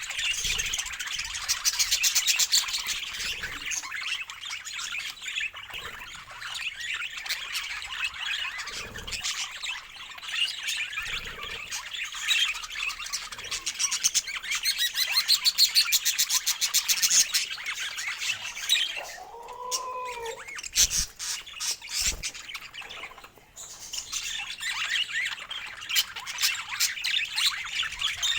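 Budgerigars chattering and warbling in a fast, continuous stream of chirps and squawks, with a short lull about two-thirds of the way through.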